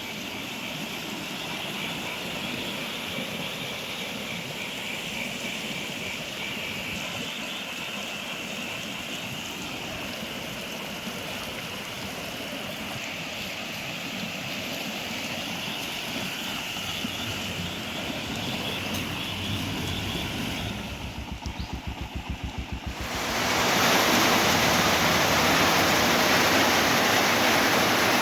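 Flooded river rushing, a steady noisy wash of water. About 21 seconds in comes a brief fluttering rumble, and about 23 seconds in the rushing becomes much louder and fuller.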